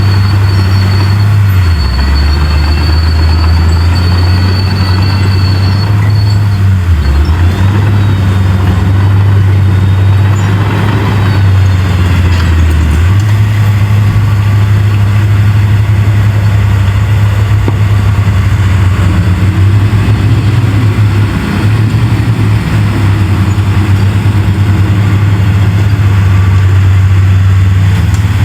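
Heavy diesel engine of earthmoving machinery running under load with a loud, steady low drone. Its pitch drops about two seconds in and rises again about thirteen seconds in.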